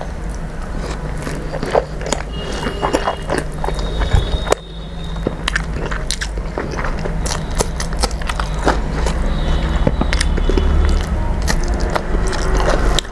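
Close-miked chewing of a mouthful of rice and red spinach saag eaten by hand, with many wet mouth clicks and smacks. A steady low hum runs underneath.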